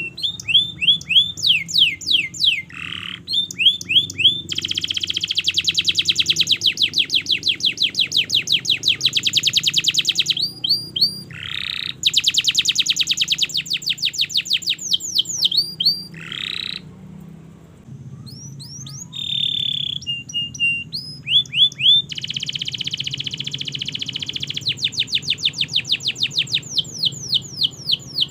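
Domestic canary singing a long, continuous song: rapid rolled trills held for several seconds at a time, alternating with phrases of repeated sweeping chirps, with a short break about two-thirds of the way through.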